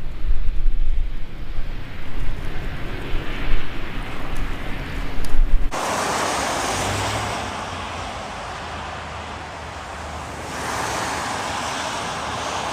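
Wind buffeting the microphone in uneven gusts of low rumble. About six seconds in it cuts abruptly to a steady rushing noise, such as passing traffic or wind, that swells again near the end.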